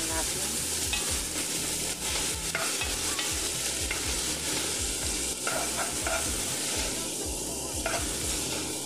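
Diced tomato, onion and garlic sizzling in oil in a non-stick wok while a wooden spatula stirs them, with a steady sizzle and intermittent scrapes of the spatula against the pan.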